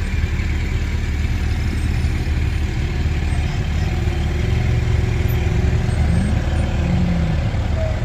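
Motor vehicle engines running slowly, a steady low rumble.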